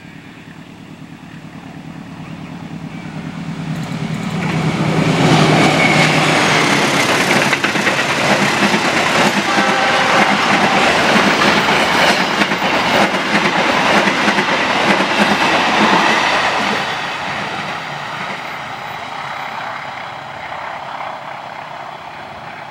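Locomotive-hauled passenger train approaching, passing close by and going away. The locomotive's engine hum swells over the first few seconds. Then the coaches' wheels clatter loudly over the rail joints for about ten seconds, and the sound fades as the train recedes.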